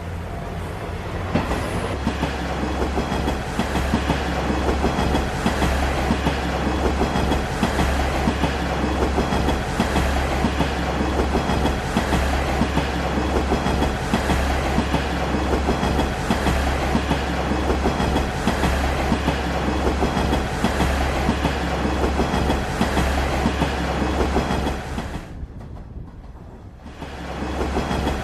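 Diesel railcar running along the track: a steady low rumble with the clickety-clack of wheels over rail joints. The sound drops away briefly near the end, then returns.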